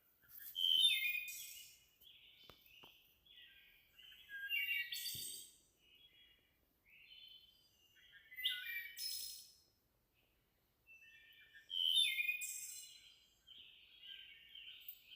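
A songbird singing: four loud phrases of quick, high chirping notes, about every four seconds, with softer notes in between.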